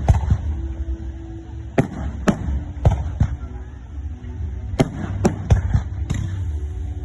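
Fireworks going off: about ten sharp bangs at irregular intervals, some in quick pairs, over a steady low rumble.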